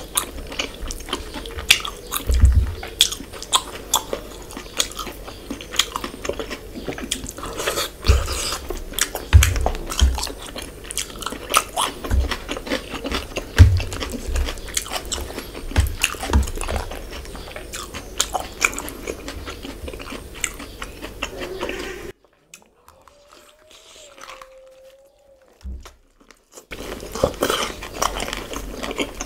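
Close-miked eating sounds of fish head curry eaten by hand: chewing, biting and wet mouth and lip clicks, with frequent short low thumps. About three-quarters of the way through, the sound drops to near silence for about four seconds, then the chewing resumes.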